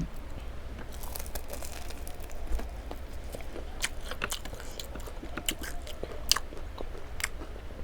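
A person eating: crunchy bites and chewing, with many short crisp crackles, after a single thump right at the start.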